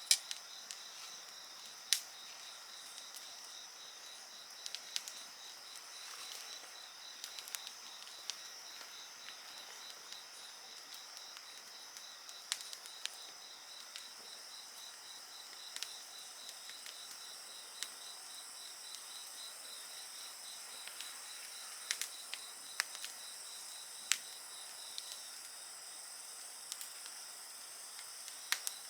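Insects calling in a steady high-pitched trill, with a wood campfire crackling in sharp, irregular pops over it.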